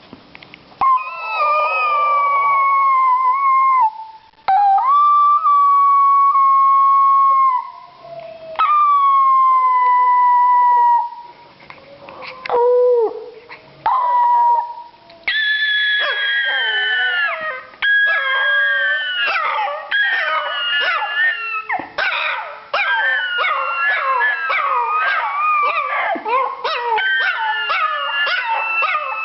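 A small dog howling. First comes a series of long howls of about three seconds each, each sagging slightly in pitch, with pauses between. About halfway in, the howls turn higher, shorter and broken, running together with yips.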